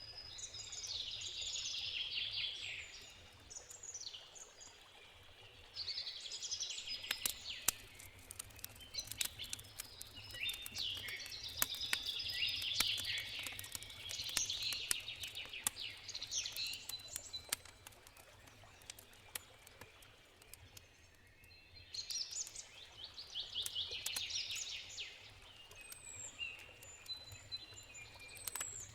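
Songbirds singing in repeated bursts of quick twittering song, over the crackling and popping of a wood campfire that is busiest in the middle stretch.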